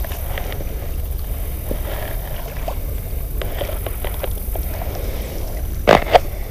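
Outdoor riverside ambience: steady wind rumble on the microphone over a faint wash of water, with small scattered knocks and a brief louder double noise, like a splash or bump, near the end.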